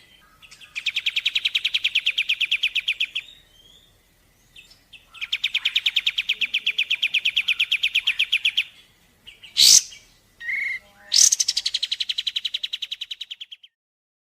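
Recorded bird calls from a bird-training mix of kapas tembak and pelatuk woodpecker. There are three long, rapid, even trills of about two to three seconds each, and a short, sharp rising call a little before the last trill.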